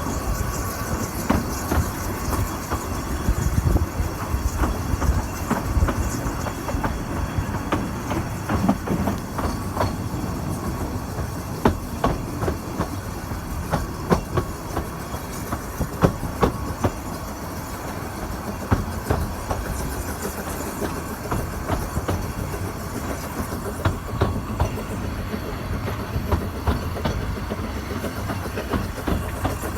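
Narrow-gauge train running on the rails: a steady low rumble with irregular clicks and knocks from the wheels on the track.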